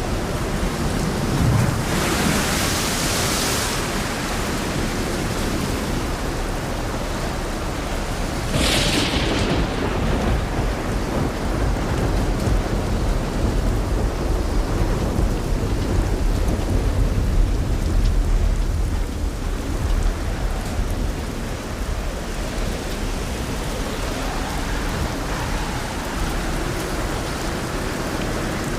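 Steady rain falling. Two louder crackling surges come about two and nine seconds in, and a low thunder rumble swells through the middle.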